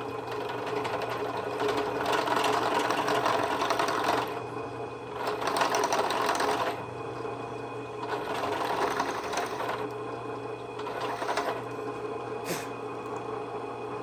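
Drill press running with a stepped bit cutting a recess into a horseshoe for a bolt head. The cutting noise comes in four spells over the motor's steady hum, with a sharp click near the end.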